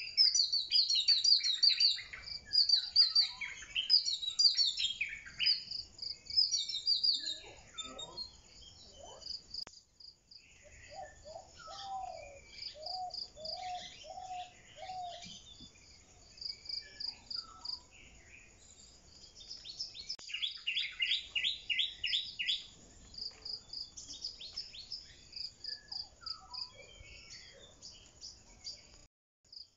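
Several birds singing and chirping, with quick high chirps and trills throughout, a run of six lower whistled notes about eleven to fifteen seconds in, and a rapid trill a little after twenty seconds.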